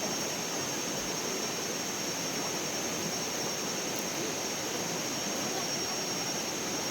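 Steady rushing of flowing river water, unbroken and even, with a thin constant high-pitched tone above it.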